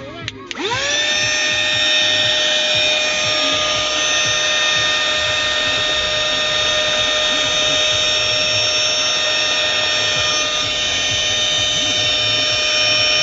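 Small high-speed motor of a 4-in-1 cordless vacuum cleaner and air duster, spinning up about half a second in, then running steadily with a high whine over rushing air.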